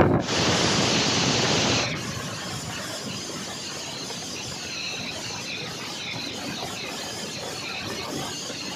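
Train running on the rails, heard on board: a loud hiss for about the first two seconds, then a steady rolling noise with faint high squealing of wheels on rail.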